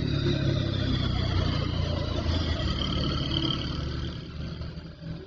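Truck engine running with a steady low rumble, fading away near the end.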